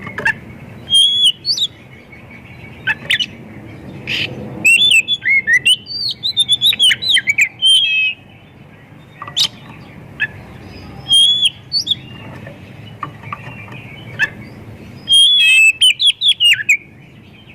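Oriental magpie-robin (kacer) singing a loud, varied song of sharp whistles, quick rising and falling notes and harsh chirps, in bursts with short pauses between phrases. The song is full of mimicked calls of other birds.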